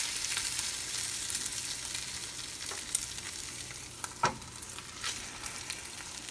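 Hickory-smoked bacon frying in a pan: a steady sizzle with scattered sharp pops and crackles of spattering fat.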